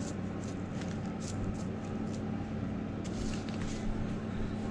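A steady low hum with scattered light clicks and rustles over it.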